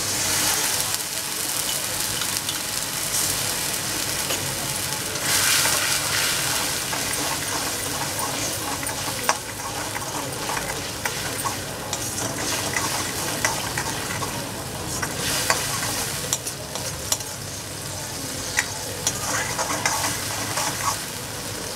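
Kashmiri chilli paste with a little water sizzling and bubbling in oil in a steel kadhai, stirred with a steel spatula that clicks and scrapes against the pan. The sizzle surges louder about five seconds in.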